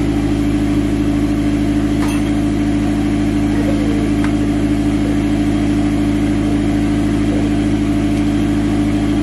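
Turbocharged car engine idling steadily, a constant low hum.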